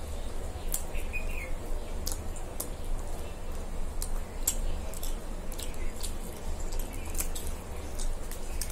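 Two people chewing pizza, with irregular wet mouth clicks and smacks, over a steady low hum.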